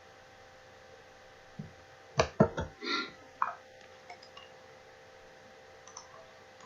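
A short cluster of sharp knocks and clinks about two seconds in, over a steady faint hiss and hum.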